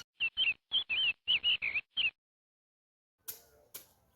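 A songbird's quick chirping: about seven short, bent notes in two seconds, set in dead silence like an inserted sound clip. Near the end a string of sharp ticks starts, about two a second.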